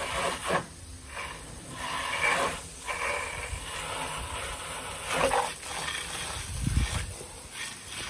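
Water from a hose spraying onto a metal fertilizer spreader to rinse off lime and fertilizer, a hiss of spray that swells and eases as the stream moves over it.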